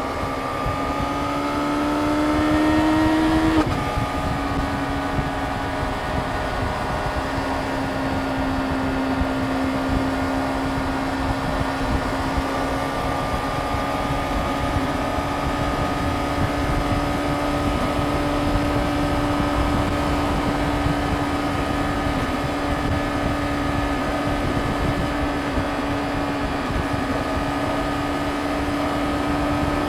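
Yamaha YZF-R6 inline-four engine under way, rising in pitch for about three and a half seconds, then dropping sharply at an upshift. It then holds a nearly steady high cruise note with wind rush underneath.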